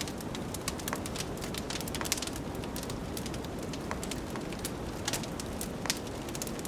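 Wood fire in a fireplace crackling, with frequent irregular sharp pops and snaps. Beneath them runs a steady low rush of blizzard wind.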